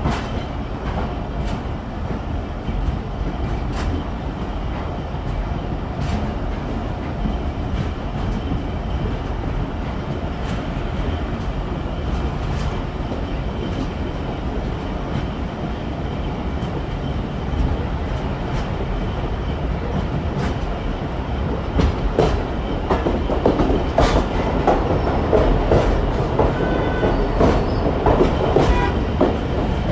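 Pakistan Railways express train running on the rails: a steady rumble with the clickety-clack of wheels over rail joints every second or two, the clatter growing louder and busier in the last several seconds.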